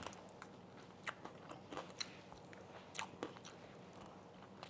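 Faint chewing of a Korean fried chicken wing with a few scattered crisp crunches. The spicy sauce coating has softened the crust, so there is less crunch.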